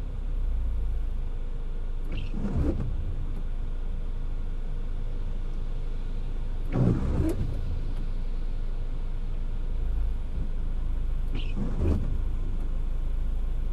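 Steady low road and engine rumble inside a car driving in the rain, with a windshield wiper sweeping three times at even intervals of about four and a half seconds.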